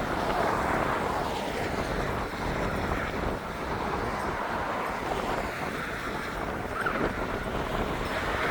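Strong, typhoon-force wind blowing hard across the microphone: a steady rushing noise with heavy low rumble.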